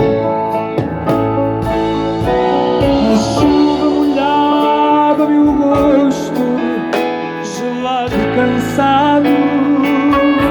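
Live band playing an instrumental passage between sung verses: sustained chords under a melody line that wavers in pitch.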